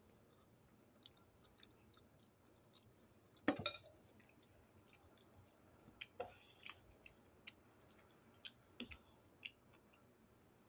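Faint chewing of soft, water-soaked ramen noodles: scattered wet mouth clicks and smacks, the loudest cluster about three and a half seconds in.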